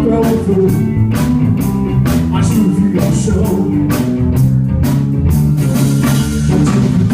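A live rock band playing an instrumental passage: electric guitar and bass guitar over a drum kit keeping a steady beat.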